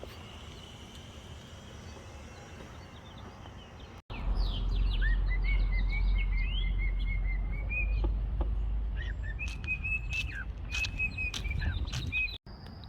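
A bird chirping and whistling in a quick run of short rising and falling notes over a low rumble. It starts abruptly about four seconds in and cuts off abruptly near the end; before it there is only faint outdoor background.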